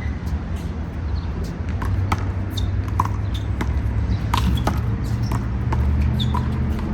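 Rubber handball being hit during a rally: a run of sharp, irregular smacks as it strikes hands, the wall and the pavement, some ringing briefly, over a steady low rumble.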